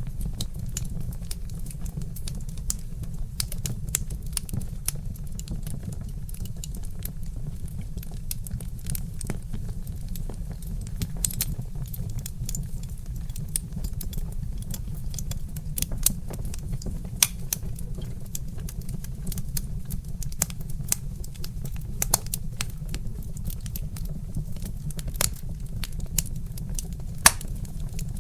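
Wood fire crackling, with many irregular sharp pops and snaps over a steady low rumble, and a louder pop near the end.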